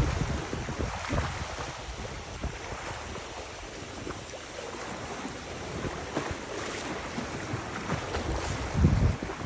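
Wind buffeting the microphone over the sound of river water, with a stronger low gust near the end.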